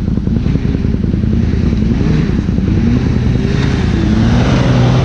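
Second-generation Dodge pickup's engine revving hard under load, its pitch rising and falling over a dense, steady rumble.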